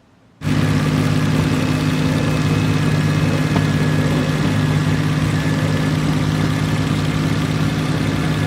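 A classic car's engine idling steadily and loudly. The sound cuts in abruptly about half a second in and does not rise in pitch.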